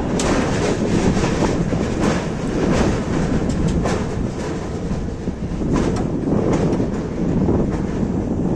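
Passenger train running along the track: a steady rumble with irregular clicks of the wheels over rail joints.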